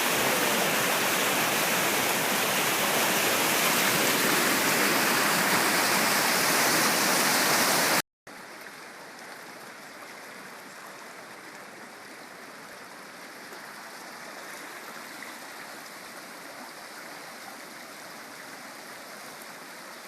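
Heavy rain with rushing runoff water, a steady, loud rush of water noise. About eight seconds in it cuts off abruptly and a much quieter, steady water rush follows.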